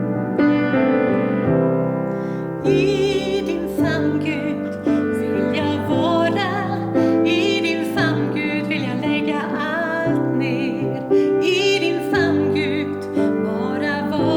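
A woman singing a song with vibrato to piano accompaniment; the piano plays alone at first and the voice comes in about three seconds in.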